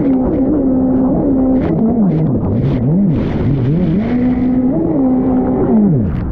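Two-stroke engine of a Fast Powersports F16 stand-up jet ski, revving up and down as the throttle is repeatedly chopped and opened again, with short bursts of spray noise.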